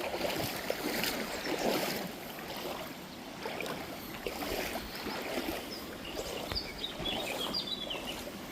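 River water sloshing and splashing irregularly around legs wading knee-deep through the current.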